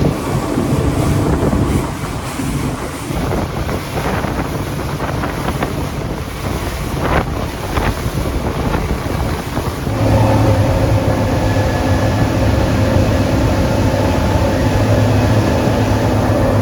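Motorboat running at speed: wind buffeting the microphone over engine drone and rushing water. About ten seconds in, a steady engine hum with a clear pitch comes in and stays louder.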